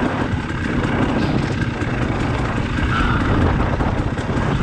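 Dirt bike engine running as the bike rides over a rocky trail, with frequent short knocks and clatter from rocks and the bike.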